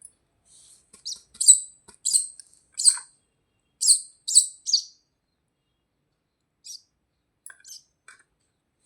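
Young birds chirping: a quick run of short, high chirps, then a few fainter ones near the end.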